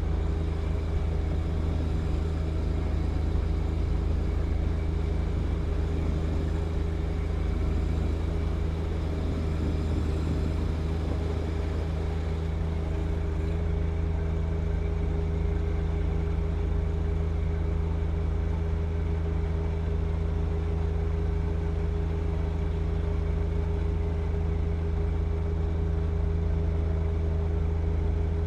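John Deere 1025R compact tractor's three-cylinder diesel engine running at a steady speed while clearing snow with its snow blower: an even, unbroken drone.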